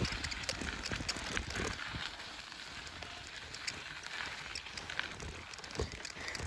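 Bicycle rolling over a bumpy, rocky back road: tyres crunching on the rough surface, with scattered clicks and rattles from the bike.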